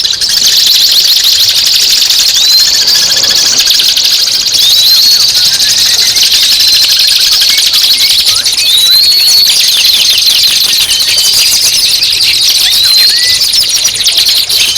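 Recorded songbird song: a loud, dense, rapid chattering trill, with a short rising whistled note repeating about every two seconds.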